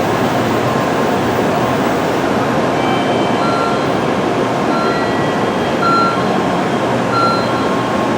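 A steady loud rumble of a Tokaido Shinkansen train at the platform, with four short high electronic beeps about a second apart in the second half.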